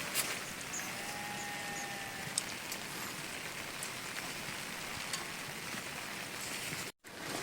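Steady rain falling, an even hiss with faint scattered drop ticks. The sound cuts out for a split second near the end.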